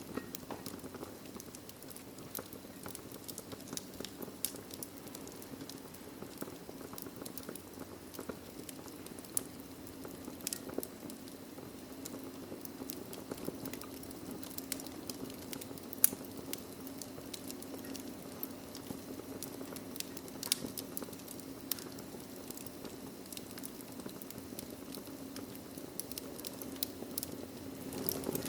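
Wood fire crackling in a fireplace: a steady soft hiss of flames with frequent sharp pops and snaps, one much louder pop about halfway through.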